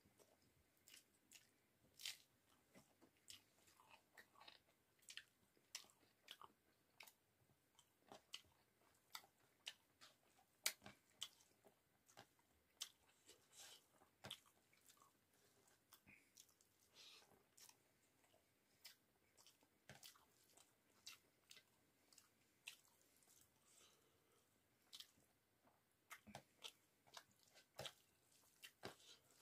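Close-up chewing of rice and cauliflower curry, with many short, irregular wet mouth clicks and smacks, a few each second.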